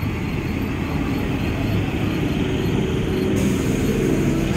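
Steady rumble of EMU local trains running on the rails as another EMU passes close alongside, with a faint hum joining about halfway through.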